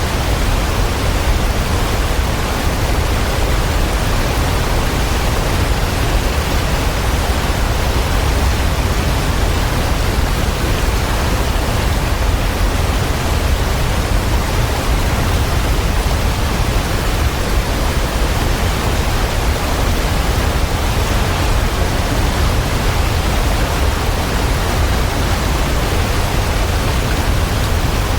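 Waterfall rushing in an even, unbroken roar of water, heaviest in the deep low end.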